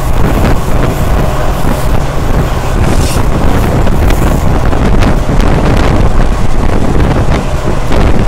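Passenger train running at speed, heard from on board: a continuous loud rumble with wind buffeting the microphone, and short clicks of wheels passing over rail joints scattered through it.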